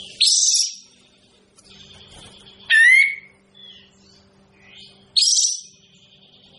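Kapas tembak songbird calling: three loud, short calls about two and a half seconds apart, alternating a harsh, buzzy high note with a sharper, bending whistled note. There is a faint steady hum underneath.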